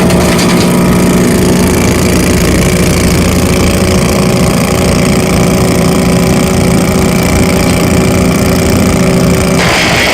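Large wood chipper's engine running steadily at a constant speed. Near the end the steady engine note breaks off into a rougher, noisier sound.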